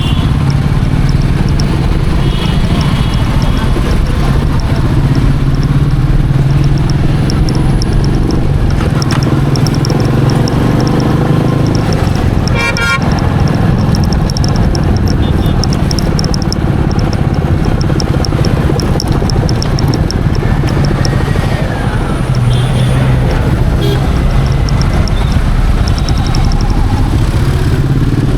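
Royal Enfield Meteor 350's single-cylinder engine running steadily while riding, with short horn toots from traffic several times.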